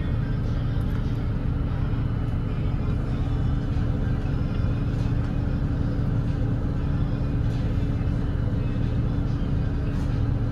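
Volvo B8RLE double-decker bus's six-cylinder diesel engine running steadily at cruising speed on an expressway: a constant low drone with no change in pitch.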